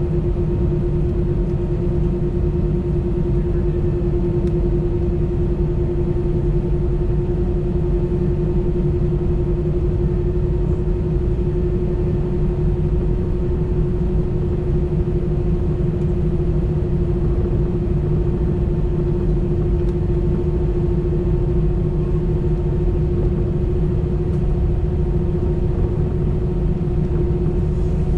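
Airbus A320's jet engines running at low power during taxi, heard inside the cabin as a steady drone with a constant hum over a low rumble.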